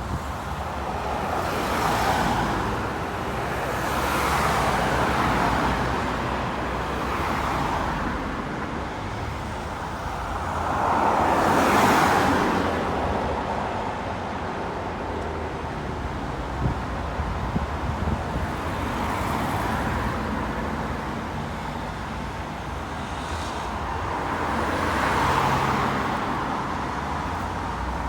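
Road traffic going by: one vehicle after another swells up and fades away, the loudest about twelve seconds in, over a steady low engine rumble.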